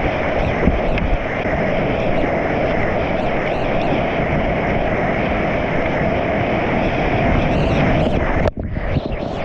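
Loud, steady rush of whitewater in a river rapid, heard from the kayak, dipping sharply for a moment near the end.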